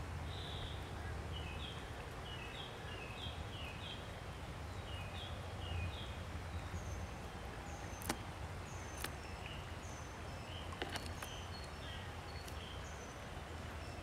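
Small birds calling: a quick run of short chirps for the first several seconds, then evenly spaced higher, thinner peeps. A few sharp clicks are heard over a steady low background rumble.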